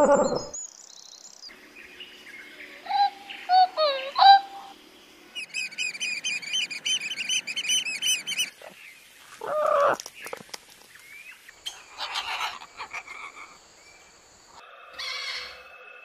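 A string of different bird calls and songs, changing every few seconds: a few sliding whistled notes, then a fast run of repeated chirps, a short loud call about ten seconds in, and scattered chirps with a held high whistle near the end.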